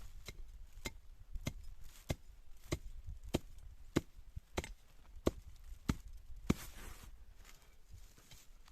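Wood being chopped with a blade: about eleven sharp strikes in an even rhythm, a little under two a second, stopping about six and a half seconds in.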